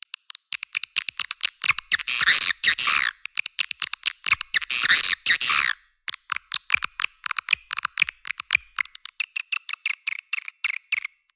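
Swiftlet calls used as a lure sound: rapid trains of sharp, high chirps and clicks, broken by two dense bursts of twittering with rising and falling notes about two and five seconds in.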